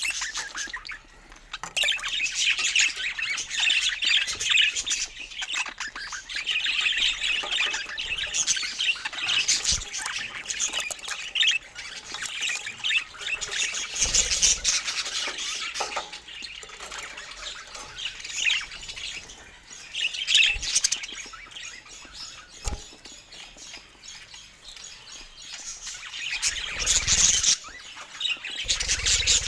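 Parakeets chattering and squawking, a dense, busy twitter that swells and thins in waves. A few brief low thumps are also heard.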